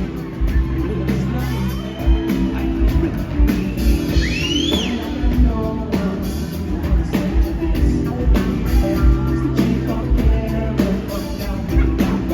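Live rock band playing a groove with a steady beat on drum kit, bass and guitar, with singing. A brief high note rises and falls about four seconds in.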